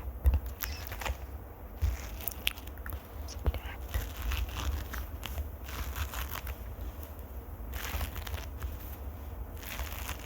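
ASMR trigger sounds right at the microphone: irregular crackling, scratching and small clicks, over a low rumble of handling noise.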